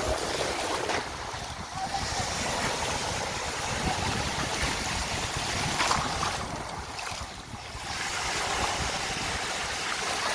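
Sea waves washing onto a beach, with wind rumbling on the microphone.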